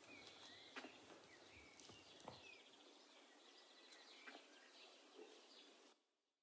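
Faint birdsong, short chirps and a quick trill, over quiet outdoor background noise, with a few soft clicks. It fades out about six seconds in.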